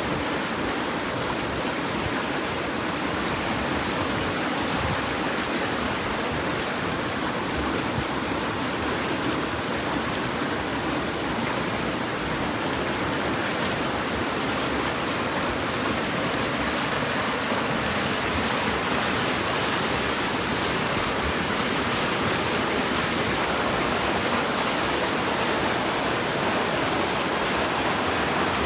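Steady rushing water, an even, unbroken noise.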